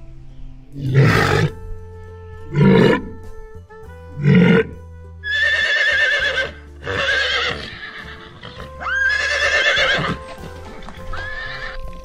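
A walrus giving three short, deep calls, then horses neighing four times with a wavering pitch, over background music.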